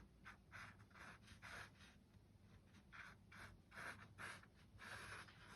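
Pencil sketching on paper: a string of short, faint scratchy strokes, about two a second, as a bird's outline is drawn.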